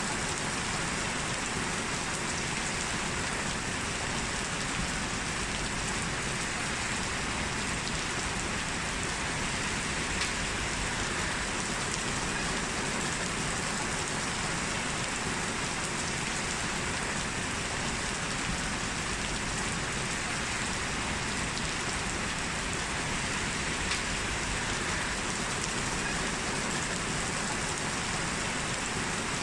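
Heavy rain falling steadily, an even hiss of drops on hard surfaces with a few louder individual drop ticks.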